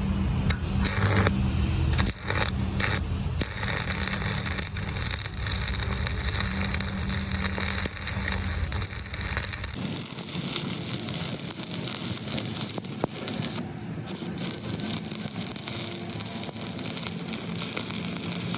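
Metal-repair work with scraping and crackling noise, over a steady low machine hum that stops abruptly about ten seconds in.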